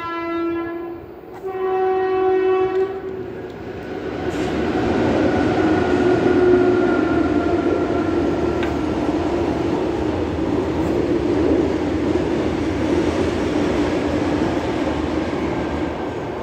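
Train horn sounding in two blasts, the second about a second and a half long, followed by the steady rumble of a train passing, which swells about four seconds in and eases slightly near the end.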